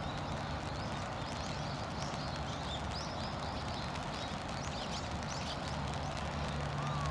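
Many short, high chirps of small birds over a steady low hum and background noise.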